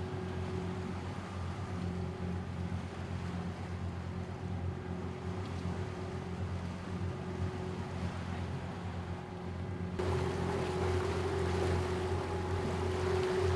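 Lagoon 420 catamaran under engine, a steady low drone with water rushing past the hull. About ten seconds in, the rushing noise gets louder.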